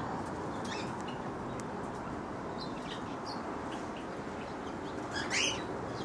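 Birds in a mixed aviary calling: scattered faint high chirps, and one louder call about five seconds in, over a steady background hiss.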